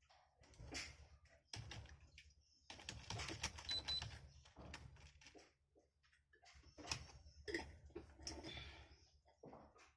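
Irregular bursts of typing and key clicks on a computer keyboard, faint, over a steady low hum.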